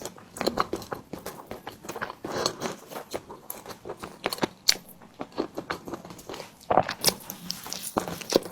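Close-miked mouth sounds of a person eating a soft 'tiger skin' dessert: biting and chewing with many quick, irregular wet clicks and smacks.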